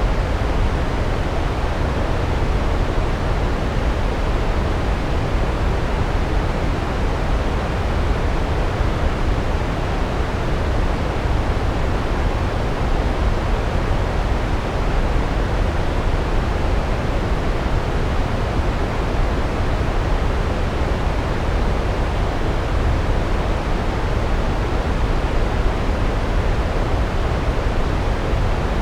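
Large waterfall: a steady, unbroken rush of falling water, heaviest in the deep low end.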